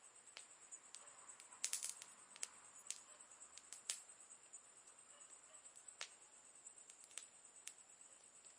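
Campfire crackling faintly: irregular sharp pops and snaps from the burning wood, a quick cluster of the loudest about two seconds in, over a steady high hiss.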